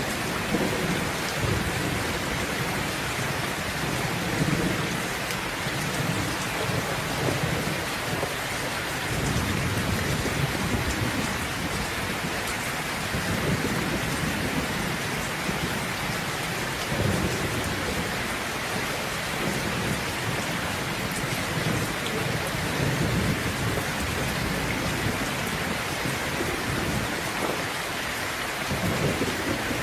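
Steady heavy rain falling, with low rolling thunder rumbling underneath and swelling now and then.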